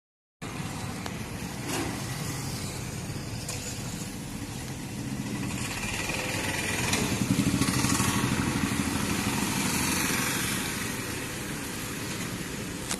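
Car engine running close by, getting louder from about six seconds in and easing off again after about ten seconds.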